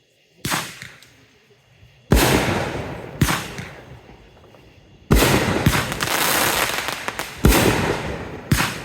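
Fireworks going off: six sharp bangs at uneven intervals over about eight seconds, each trailing off in a long fading rumble and crackle.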